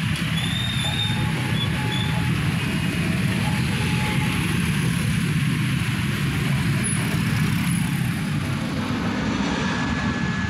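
A train running with a steady, heavy low rumble, with a few brief high squeals early on.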